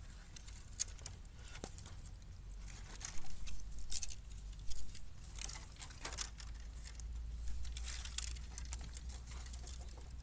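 Bamboo burning in a fire in a square metal can, crackling with irregular sharp snaps and pops, several louder ones bunched about three to five seconds in, over a low steady rumble.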